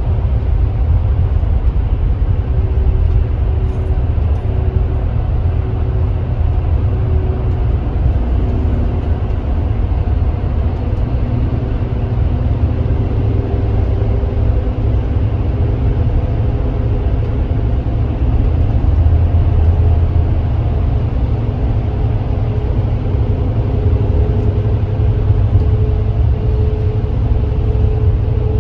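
Kia Granbird Sunshine coach's diesel engine running while the bus drives: a deep, steady drone with an engine tone that climbs slowly in pitch toward the end.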